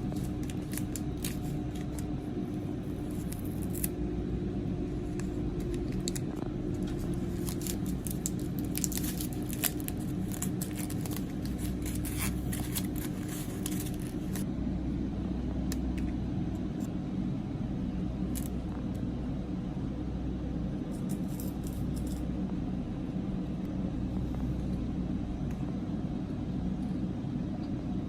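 Snack packaging being handled: bursts of crinkling and clicking through the first half, and again briefly past the middle, over a steady low hum.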